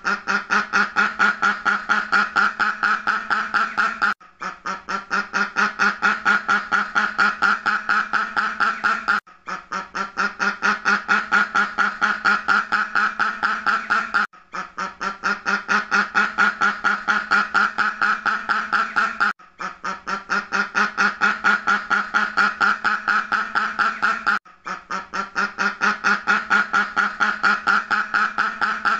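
Duck quacking in fast, even runs of about six or seven quacks a second. Each run lasts about five seconds and is broken by a brief pause, repeating like a loop.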